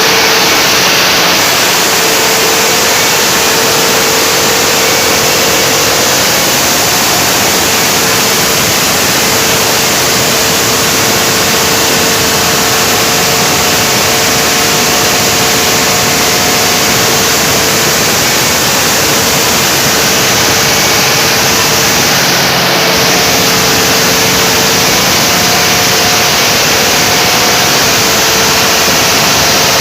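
Generator engine running steadily: a loud, even mechanical noise with a faint steady hum underneath.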